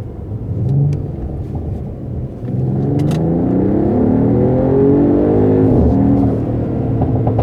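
Mercedes-AMG GT 4-Door Coupé engine and exhaust revving: the pitch climbs steadily for about three seconds, then drops away near the end.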